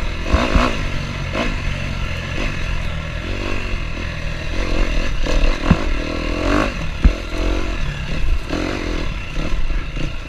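KTM 250F four-stroke dirt bike engine running and revving up and down on the throttle, with a few sharp knocks along the way.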